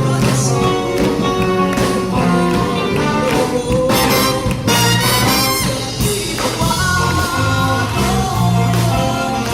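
Live band music with a steady beat, bass line and sustained melody notes.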